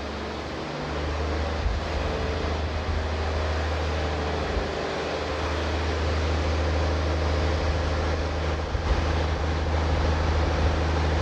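A steady, low engine drone with a constant hum under a haze of outdoor noise.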